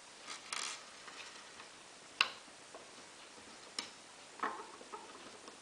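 A few faint, separate clicks and taps of small plastic and metal plug parts as a cable clamp is fitted into a Schuko plug.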